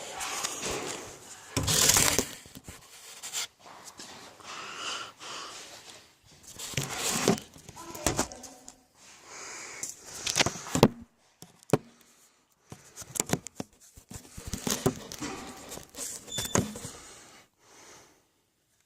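Electric 1/10-scale Traxxas RC cars driving around a small shed. There are irregular bursts of motor and tyre noise, broken by knocks and clicks and short pauses.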